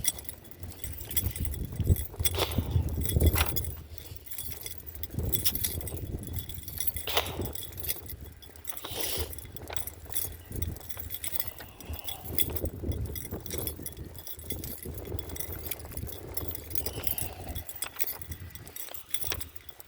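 Light metallic jingling and clinking, like keys, over a low rumble, with many small clicks throughout.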